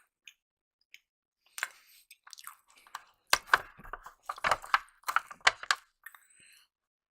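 Close-up chewing and biting of breakfast food, with sharp wet mouth clicks and crunches. It starts about a second and a half in and grows busier and louder in the second half.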